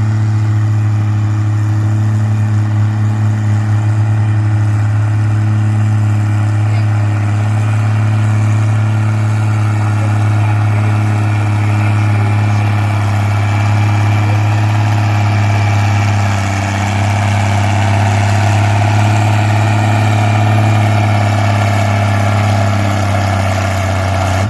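Antique farm tractor engine running at a steady, unchanging speed while pulling a weight sled in a tractor pull. Its pitch begins to drop right at the end.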